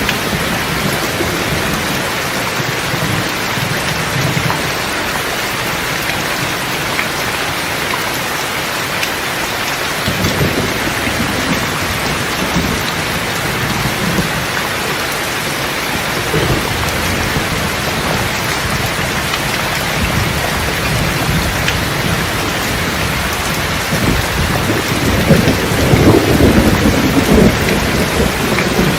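Steady rain falling, with rolling thunder rumbling now and then; a louder, longer roll of thunder builds near the end.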